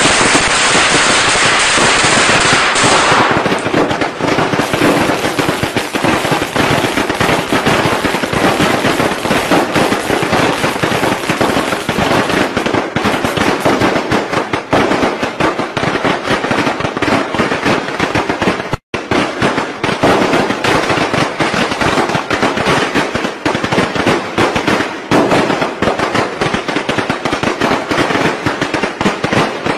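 Strings of firecrackers going off in a dense, continuous crackle of rapid bangs, with a change in the sound about three seconds in and a momentary break a little past halfway.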